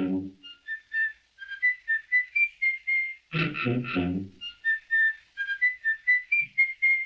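A whistled tune on an early sound-cartoon soundtrack: a quick run of short, high notes stepping up and down. About three and a half seconds in, it is broken by a brief cluster of three lower, fuller notes.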